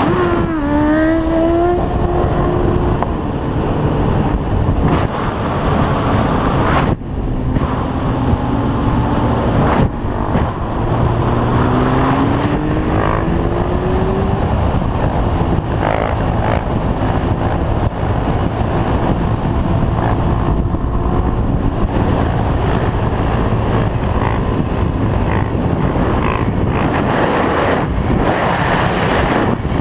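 Motorcycle engines running and revving, with steady heavy wind and road noise, in several short clips cut one after another.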